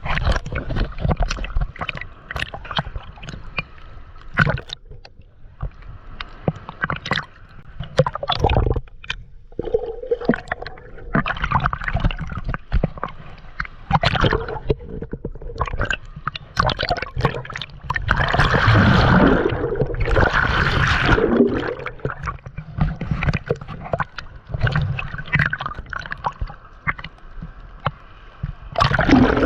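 Gentle sea water lapping and gurgling close by, with irregular small splashes. A bigger wash of water comes about two-thirds of the way through.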